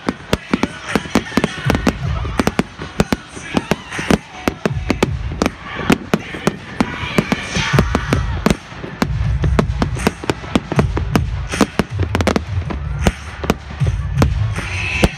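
Fireworks going off: a rapid, irregular string of sharp bangs and crackles over low rumbling booms.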